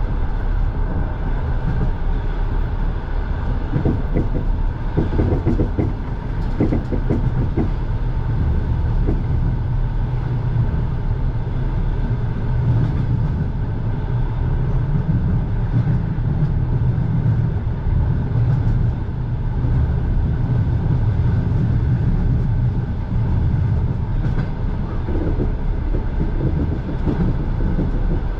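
Passenger train running on the rails, heard from inside the carriage: a steady low rumble from the wheels, with a short run of wheel clatter a few seconds in and again near the end.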